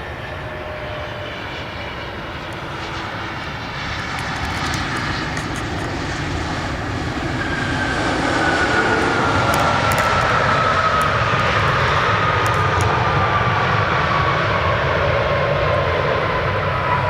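An airliner's engines grow steadily louder over the first half and then hold a steady rumble. From about halfway, a whine slides slowly downward in pitch as the aircraft passes.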